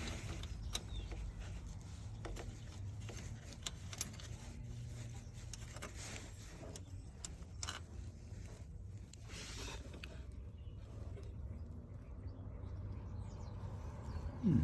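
Jeep Patriot's 2.4-litre four-cylinder engine idling, a low steady hum with scattered light ticks; the number 1 cylinder misfire is still present after new spark plugs.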